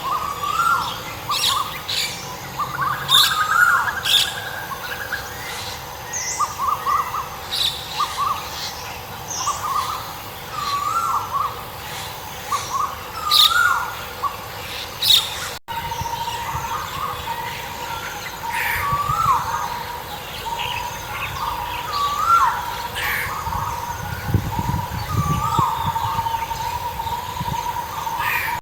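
Several birds calling: one bird repeats a short hooked call every second or two, while others give sharp high chirps over it. About halfway through there is an abrupt break, after which a steady, even tone runs under the calls.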